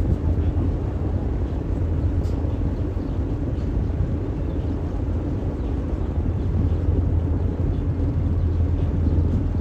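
Tour boat's engine running steadily, a continuous low rumble with a hiss of water and air over it.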